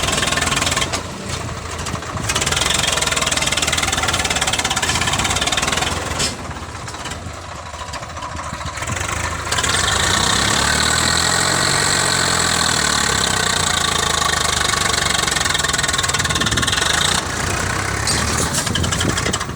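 Swaraj tractor engines running, the sound changing abruptly several times. About halfway through, the engine pitch rises and then falls again, as with revving under load.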